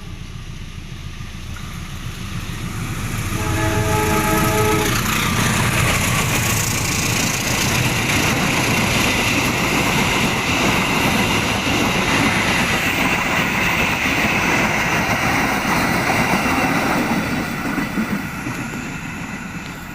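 CC 201 diesel-electric locomotive sounds its multi-note chime horn once, briefly, about three seconds in, then the train passes close by with a loud, steady rumble and rail noise that holds for some thirteen seconds and eases off near the end.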